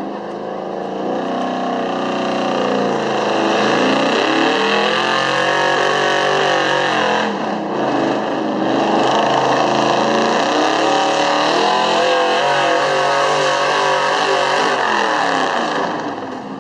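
Chevrolet 454 big-block V8 in a 1971 Chevy pulling truck at full throttle, pulling a sled. The revs climb, dip briefly about halfway, climb again, then drop off near the end.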